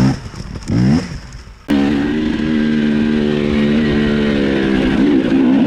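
Dirt bike engine revving in quick rising sweeps, then, after an abrupt change under two seconds in, running at a steady, held pitch.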